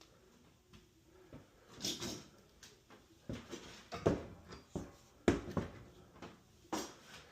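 Tools and materials being handled: a series of irregular knocks and clatters, the loudest about five seconds in.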